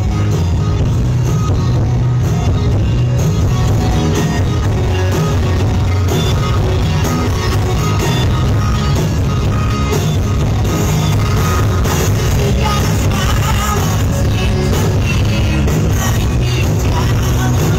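Loud music with a heavy bass line and some singing, played through a powerful competition sound system.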